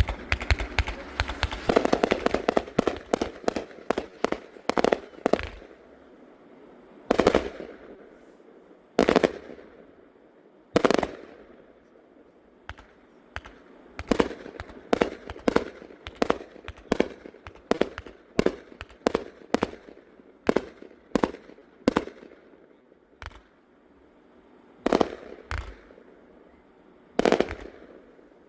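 A Riakeo 1.4G consumer compound firework cake of 99 shots firing. It starts with a rapid volley of shots for about six seconds, then settles into single shots every half second to two seconds, with a few louder booms among them.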